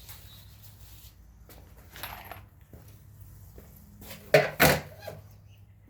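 Scattered taps and clicks of tools and materials being handled during door carpentry work, with two sharp knocks close together about four and a half seconds in, over a steady low hum.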